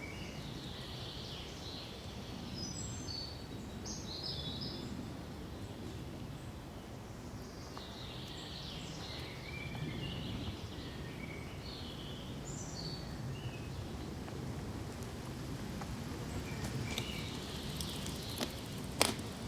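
Small songbirds chirping in scattered runs of short calls over a steady low rush of wind in pine trees. A single sharp click comes near the end.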